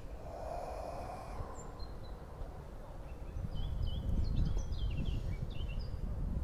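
Birds chirping in a quick run of short, twittering calls about halfway through, over a low, steady rumble.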